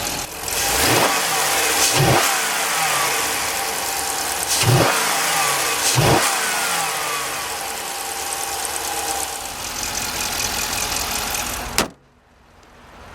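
Chrysler 6.4-litre 392 Hemi V8 running with four quick rev blips, each dropping back to idle, heard from the open engine bay. It cuts off abruptly near the end.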